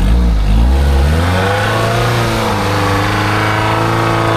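Old Jeep Cherokee's engine revving on an off-road obstacle, rising in pitch over the first second and then held steady at high revs under load.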